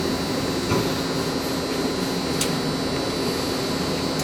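Mori Seiki MV653-50 vertical machining center running with a steady hum and high whine while its spindle shifts into the low gear range, with a faint click about two and a half seconds in.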